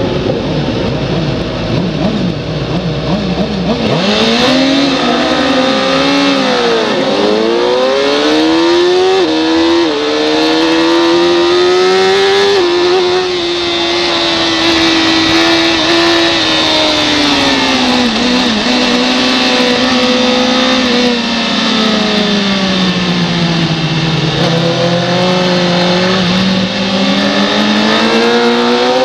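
Racing motorcycle engine at full throttle: running at low revs for the first few seconds, then about four seconds in it pulls away hard, the revs climbing through several gear changes. The revs drop in the middle as it slows, then climb again near the end, over a steady rush of wind.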